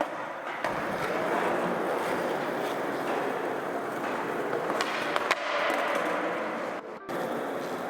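Skateboard wheels rolling on smooth concrete, with a few sharp clacks of the board.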